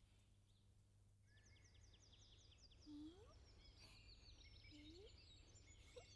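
Faint birdsong ambience: rows of short, quickly repeated high chirps starting about a second in, over otherwise near silence.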